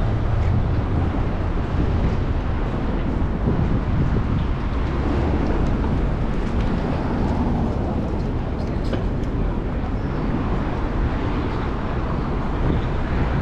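Steady low rumble of wind on the microphone and road noise from riding a bicycle through city streets.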